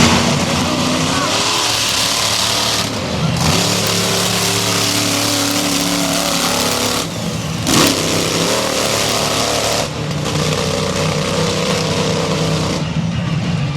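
Monster truck engine running and revving, its pitch rising and falling, with abrupt changes in the sound a few times.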